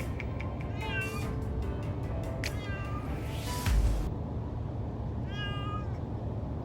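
A cat meowing three times, drawn-out cries that rise and fall in pitch, over the steady low rumble of a moving car: the cat is distressed by the car ride. A heavy thump comes about four seconds in.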